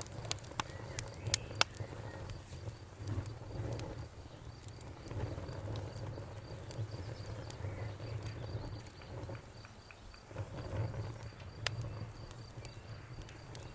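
Wood fire crackling, with sharp pops that come several times in the first two seconds and once more near the end, over a low rumble of the burning. Crickets chirp steadily throughout in a high, even pulse.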